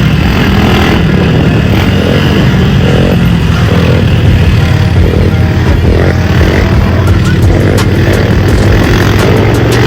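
Small four-stroke pit bike engine running steadily under throttle.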